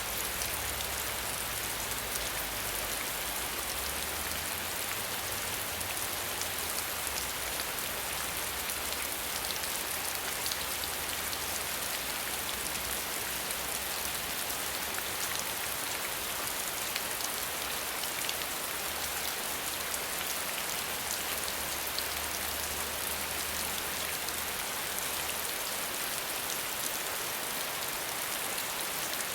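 Steady rain with no thunder: a dense, even patter of drops. A faint low rumble comes and goes beneath it.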